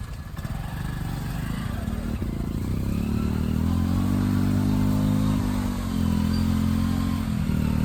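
Small motorcycle engine running: low and rough at first, then picking up revs about two and a half seconds in and holding a steady pitch, easing off briefly twice.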